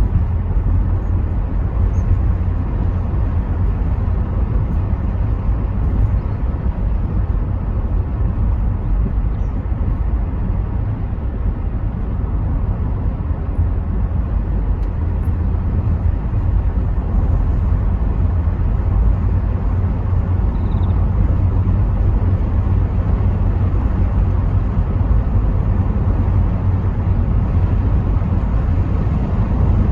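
Rover 75 V6 estate on the move, heard from inside the car: a steady deep rumble of engine and road with an even haze of tyre and wind noise.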